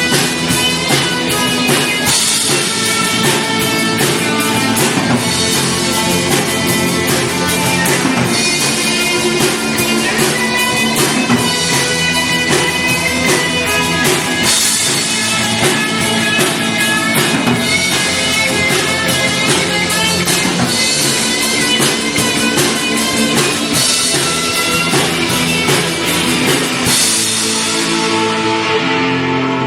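Live rock band playing an instrumental passage with electric guitar and drum kit. Near the end the drums stop and ringing guitar notes carry on.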